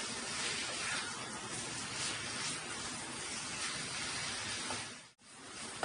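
Chicken and onion masala sizzling in a frying pan as it is stirred with a wooden spatula: a steady hiss with faint scraping strokes. The sound cuts out for a moment near the end, then resumes.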